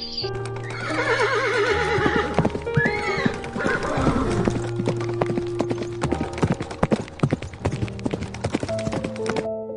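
A horse whinnying, a wavering call that falls in pitch, followed by a long run of hoof clip-clops over background music.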